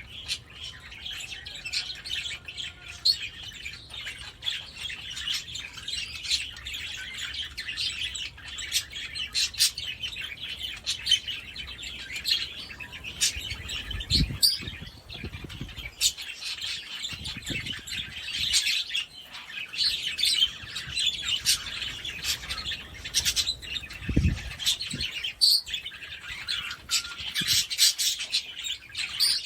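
Budgerigar chattering and warbling continuously, a rapid run of chirps, trills and clicks. A couple of brief low thuds come through, about fourteen and twenty-four seconds in.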